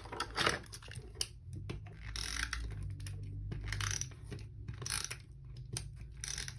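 Paper handling on a planner page: short rustles and crinkles with light taps and clicks, coming in several separate bursts as stickers and paper pieces are moved and pressed down.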